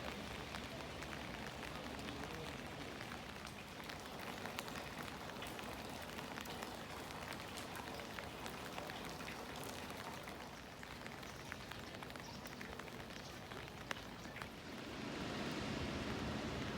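Steady rain falling, with many small, sharp drop ticks through it. About fifteen seconds in, a louder, lower rumble rises over the rain.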